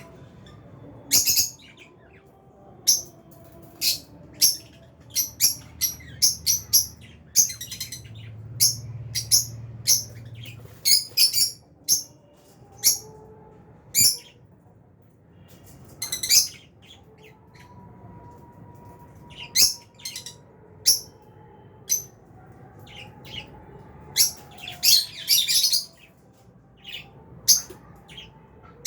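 Albino and Fischer's lovebirds chirping: many short, sharp, high-pitched chirps at irregular intervals, coming in quick clusters about a third of the way in and again near the end.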